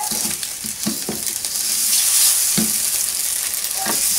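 Fried rice with ham sizzling in oil in a hot wok while it is stirred with a wooden spoon: a steady high hiss with short scrapes and knocks of the spoon against the pan scattered through it.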